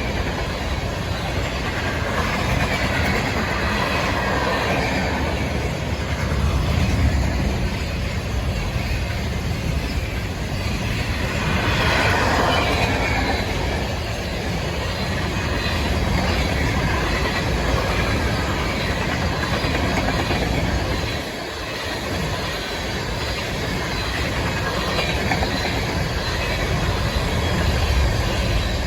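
Train running on its rails: a steady rumble and wheel noise with the clickety-clack of the wheels and a squeal from the wheels, which swells briefly about twelve seconds in.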